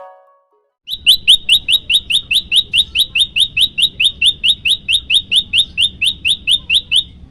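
Prenjak lumut song: a fast, even series of short rising chirps, about four or five a second. It starts about a second in and stops shortly before the end.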